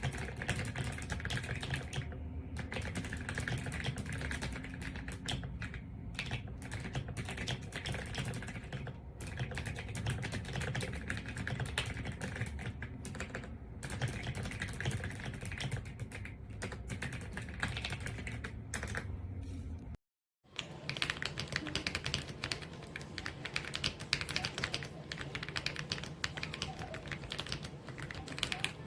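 Continuous fast typing on an AULA F99 mechanical keyboard with pre-lubed linear switches, a dense stream of keystroke clacks. A brief cut to silence about twenty seconds in, then the typing carries on.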